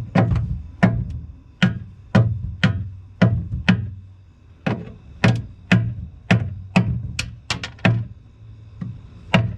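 Repeated sharp knocks on wood, about two a second with a couple of short pauses, as something stuck to a wooden piece is knocked loose.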